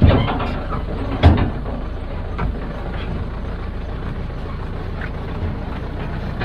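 Heavy machinery engine running steadily, with two loud knocks in the first second and a half and a smaller one soon after.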